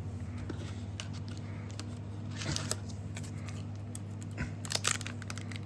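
Trading cards and a booster pack's wrapper being handled: light rustles and clicks, strongest about halfway through and again near the end, over a steady low hum.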